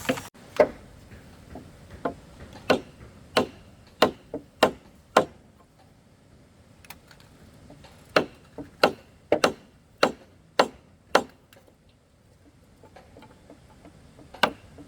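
A blade chopping with sharp, single strikes, a couple a second, in a run of blows, a pause, a second run, then a few more strikes near the end.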